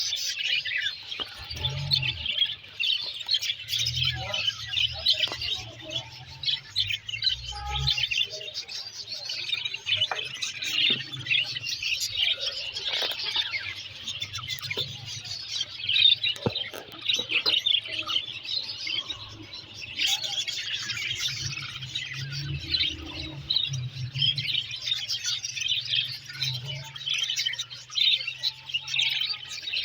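Many small birds chirping and twittering together in a dense, continuous chorus, with a low rumble underneath that comes and goes.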